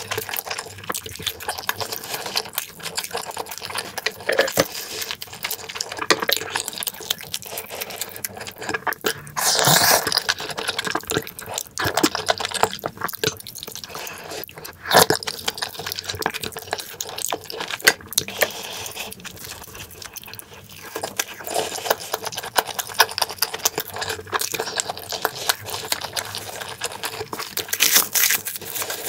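Close-miked eating sounds: wet chewing, lip smacking and mouth clicks from someone eating pan-fried battered sausage and crab-stick jeon with kimchi stew, with a few louder, sharper smacks along the way.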